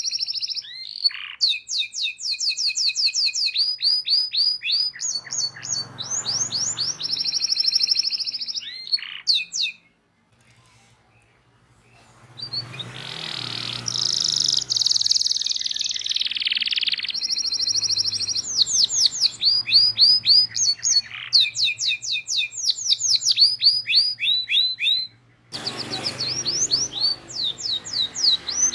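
Domestic canary singing a long song: high held whistled notes alternating with fast trills of repeated chirps. About ten seconds in it falls silent for about two seconds, then gives a harsh rasping phrase for several seconds before the trills resume.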